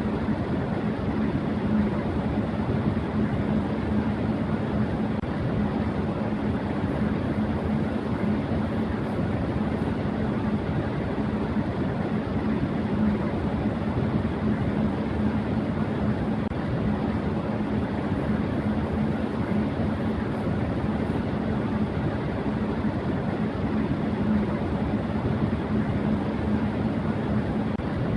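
Electric fan running at high speed: a steady rush of air with a constant low motor hum underneath, unchanging throughout.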